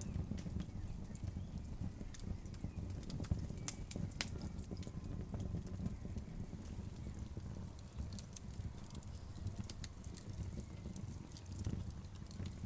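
Log fire crackling: irregular sharp pops and snaps over a steady low rumble.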